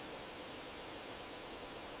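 Faint steady hiss-like background noise with no distinct calls or knocks.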